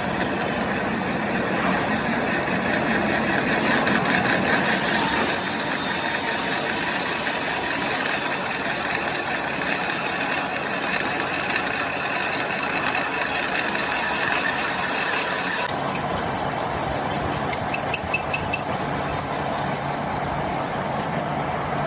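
A heavy engine running steadily with rattling. About 16 s in the sound changes and a run of quick clicks follows.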